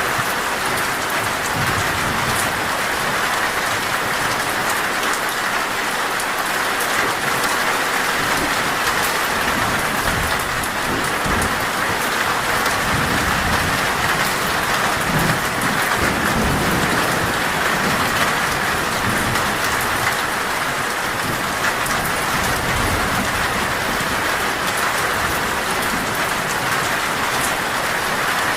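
Heavy, torrential rain falling steadily on a metal roof, with a low rumble of thunder swelling through the middle.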